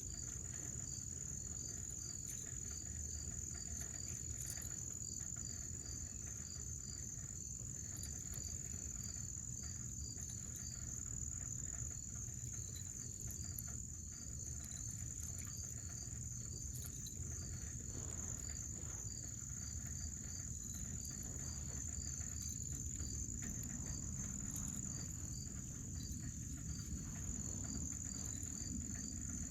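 Insect chorus: crickets keep up a steady high trill while a second insect chirps in a quick, regular pulse, over a low steady rumble.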